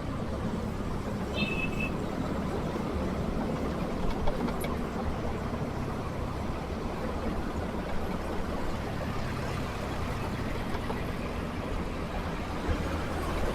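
Motorcycle riding through heavy city traffic: steady engine, wind and road noise with surrounding vehicles. A brief high-pitched beep sounds about a second and a half in.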